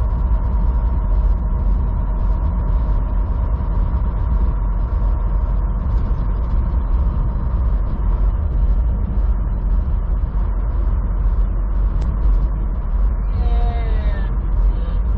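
Steady low rumble of a semi truck's engine and road noise inside the cab while driving slowly, with a faint steady tone above it. A brief faint voice comes in near the end.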